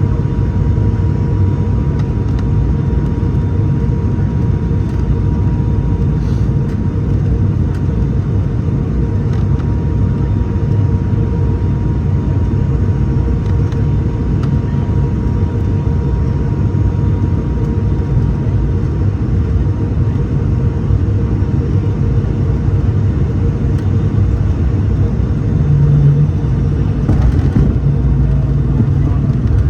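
Cabin noise in an ATR 72-600 turboprop: its Pratt & Whitney PW127 engines and propellers running with a steady low drone and faint steady tones. One higher tone fades out about two-thirds of the way through, and a deeper hum grows stronger near the end.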